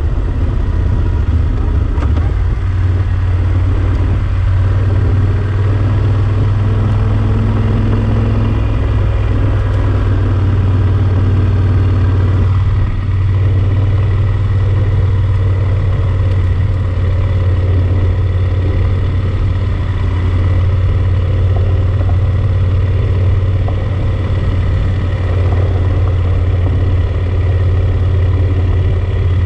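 Yamaha XT1200Z Super Ténéré's 1199 cc parallel-twin engine running steadily at cruising speed while riding, its low hum constant throughout, with road and wind noise.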